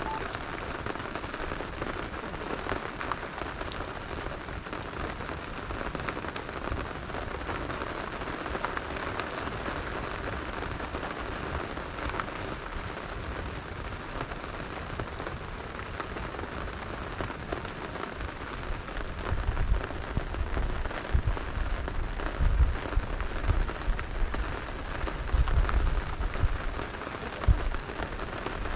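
Steady rain falling on a surface, with scattered sharp ticks of drops or crackles. From about two-thirds of the way in, low rumbling thumps come and go beneath the rain.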